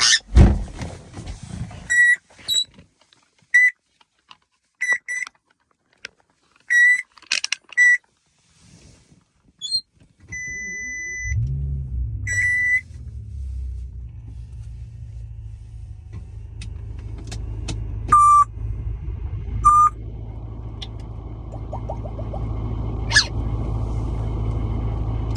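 A series of short high-pitched beeps, then one longer steady beep, after which a car engine starts about eleven seconds in and runs with a steady low rumble, punctuated by two more short beeps.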